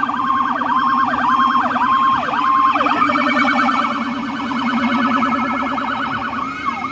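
Emergency vehicle sirens sounding loudly: a rapid warbling yelp runs throughout, and a second siren tone sweeps downward about twice a second for the first three seconds.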